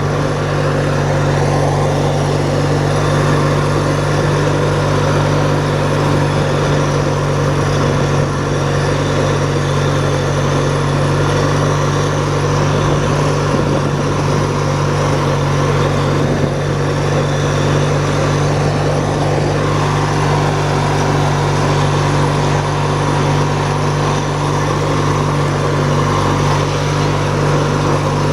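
Hechinger (MTD-built) riding lawn tractor's engine running steadily under way, its pitch holding even. The owner thinks the carburetor is probably a little clogged, which makes the choke hard to set.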